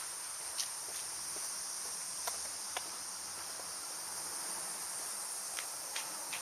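Cicadas droning in a steady, high-pitched summer chorus, with a few faint clicks scattered through it.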